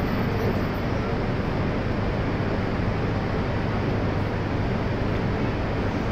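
Steady rumble and hiss of Shinkansen trains at the platform as an E3 series Tsubasa creeps up to a waiting E2 series Yamabiko for coupling, with a constant low hum and no distinct knocks or clanks.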